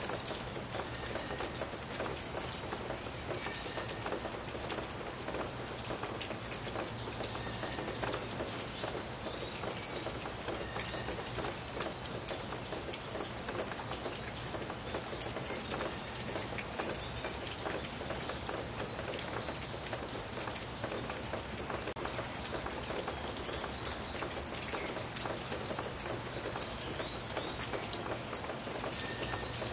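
Steady rain falling, a dense patter of drops, with short bird chirps now and then, a few times through.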